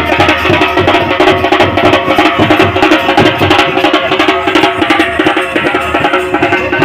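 Loud traditional band music: fast, dense drumming with a sustained melody line held over it.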